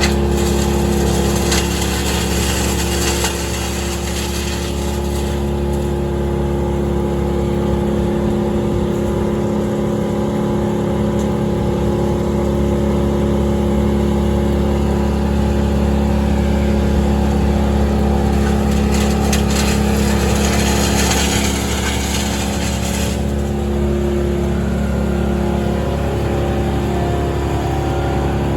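Large work-machine engine running steadily at a constant speed. Two stretches of loud hissing lie on top of it, one near the start and one about two-thirds of the way through.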